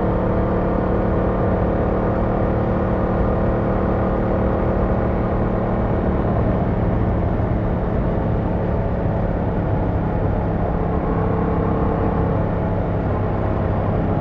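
Yamaha MT-07's 689cc parallel-twin engine running at a steady, nearly unchanging engine speed while riding.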